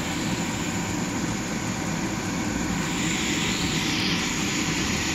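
Green banana pieces sizzling as they shallow-fry in oil in a nonstick pan, a steady hiss that grows brighter about three seconds in.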